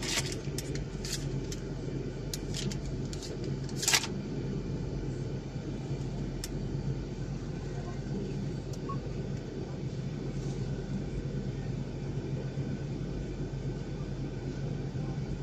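Steady low hum of a 2014 Jeep Grand Cherokee's 5.7-litre V8 idling, heard inside the cabin. Several sharp clicks come in the first four seconds, the loudest about four seconds in.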